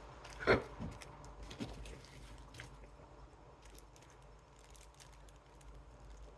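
Small knocks and light clicks from handling parts and tools on a workbench: one sharper knock about half a second in, two lighter ones shortly after, then faint scattered ticks.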